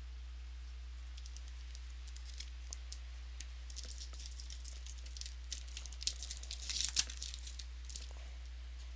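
Crinkling and tearing of a foil trading-card pack wrapper as it is opened by hand. Scattered small crackles build to the loudest burst about seven seconds in, over a steady low electrical hum.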